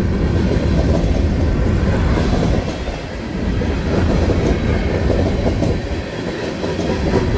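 Freight cars of a manifest train rolling past close by: a steady rumble of steel wheels on rail with a clickety-clack of wheels over rail joints, easing briefly about three and six seconds in.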